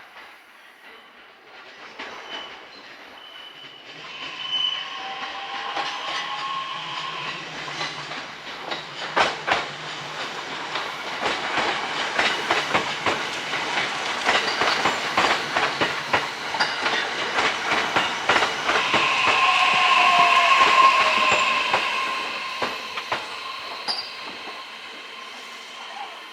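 JR East E131 series electric train running past, its hybrid SiC IGBT VVVF inverter and traction motors giving a whine with gliding tones, and wheels clicking over rail joints. The sound builds to its loudest about twenty seconds in, then fades.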